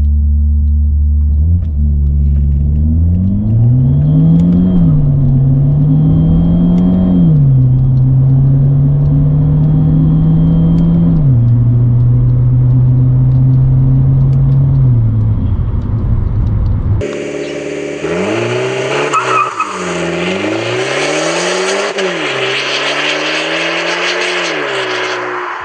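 Alfa Romeo Giulietta's 1.4 Turbo MultiAir four-cylinder accelerating hard, its pitch climbing and then dropping sharply at each upshift of the six-speed twin-clutch gearbox, several times. About 17 seconds in it switches to the exhaust heard brighter and rawer, the engine revved up and down several times.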